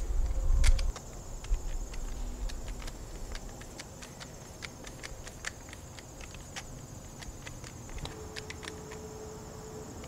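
Screwdriver driving the housing screws back into a Marinco Park Power shore-power plug: scattered small clicks and ticks. A steady high insect buzz, like crickets, runs underneath, and a low rumble stops about a second in.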